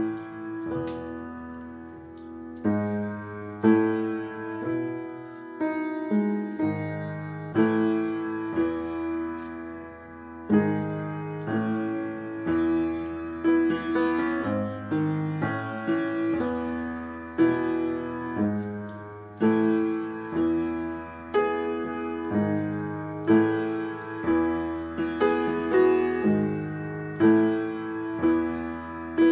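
Slow, gentle piano music: chords struck about every one to two seconds and left to ring and fade.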